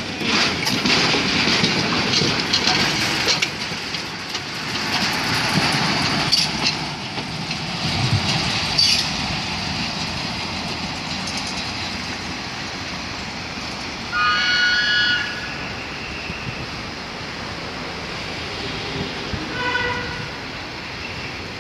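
Work train of a Cockerill shunting locomotive and two flatcars passing close, wheels clattering over the rail joints, then fading as it moves away. About fourteen seconds in a horn sounds for about a second, and a shorter toot comes near the end.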